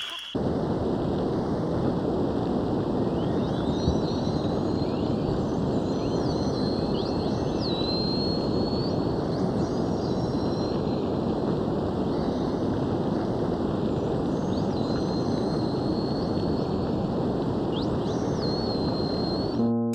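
Dolphin whistles: thin, high whistles, some held level and some gliding up or down, coming every few seconds from about three seconds in, over a steady rushing noise.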